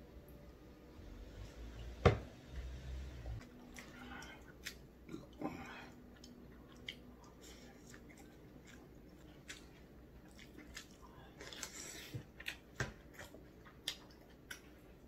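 Close-miked eating sounds: wet chewing and lip smacks with many scattered small clicks. A sharp knock about two seconds in is the loudest sound.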